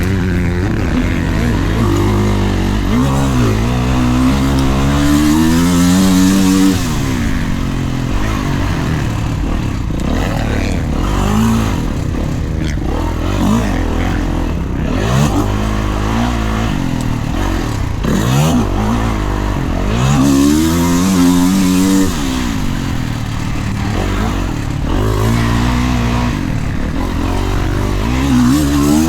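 Dirt bike engine being ridden around a motocross track, revving up and down over and over: the pitch climbs under throttle, then drops off as the rider shuts off.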